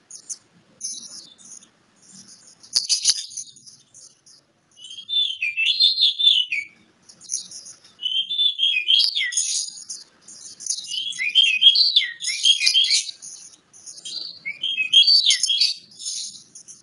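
Oriental magpie-robin (kacer) singing: a run of rich, varied warbling phrases coming in four louder bursts after the first few seconds, over continual high twittering.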